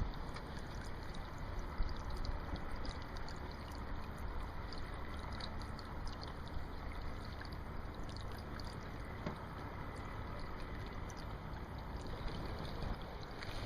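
Steady wind and water noise out on the lake, as from a small boat under way, with a low rumble and a few faint ticks.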